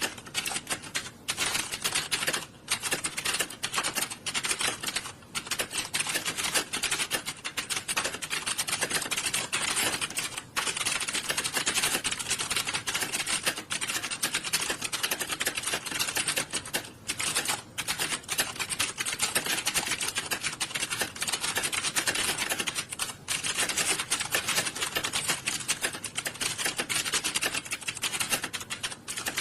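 Many computer keyboards being typed on at once, a dense, continuous clatter of keystrokes with a few brief lulls.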